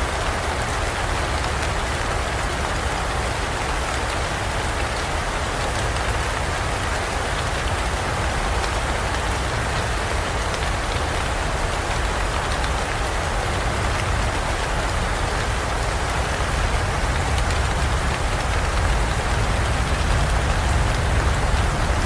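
Rainstorm: steady, dense rain falling, with a low rumble underneath that swells slightly near the end.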